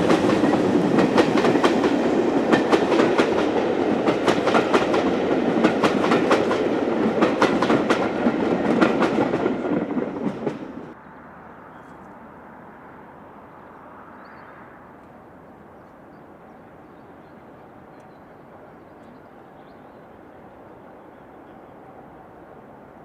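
Train passing close by, its wheels clicking rapidly over the rail joints amid a loud rumble, cutting off abruptly about eleven seconds in and leaving only a faint steady background noise.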